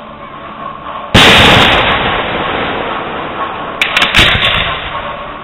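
Fireworks display: a loud aerial shell bursts about a second in and its boom slowly dies away, then a couple of sharper cracks follow about four seconds in.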